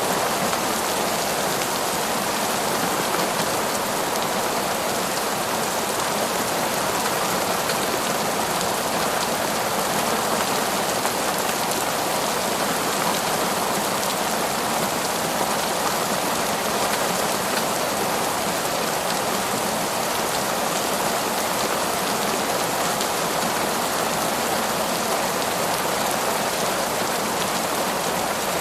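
Heavy, torrential rain falling steadily, a dense even hiss of drops with no pauses or distinct events.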